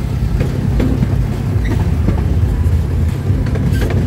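Miniature theme-park train running along its track, heard from aboard a passenger carriage: a steady low rumble with a few short clicks and knocks.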